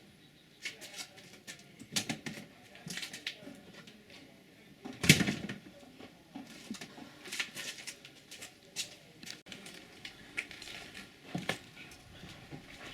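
Irregular clicks and knocks with no steady rhythm, the loudest a single knock about five seconds in.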